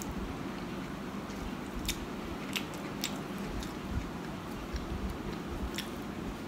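Close-up mouth sounds of chewing a mouthful of sandwich, with a few sharp wet clicks, over a steady low background rumble.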